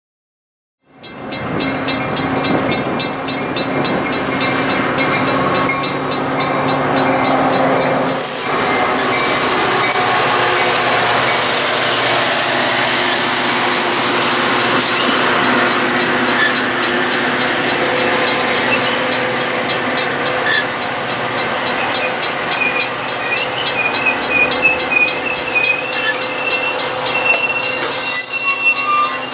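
Metra commuter train's bilevel cars rolling past on steel rails as the train arrives at the station, starting about a second in. High wheel or brake squeals come and go in the second half as it slows.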